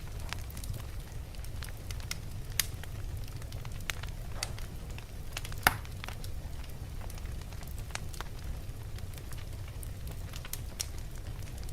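Wood fire burning in a fireplace: a steady low rumble of flames with scattered crackles and pops, two sharper pops about two and a half and five and a half seconds in.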